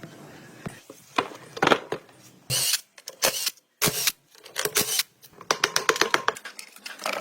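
Metal parts and hand tools being worked: scattered sharp clicks and clinks, two short noisy bursts, and a fast run of clicks a little after the middle.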